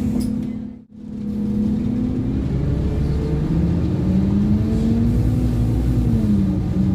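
Scania OmniCity N230UD double-decker bus's diesel engine running under way. The sound drops out briefly about a second in. The engine note then falls and rises twice, as the bus accelerates through its gears.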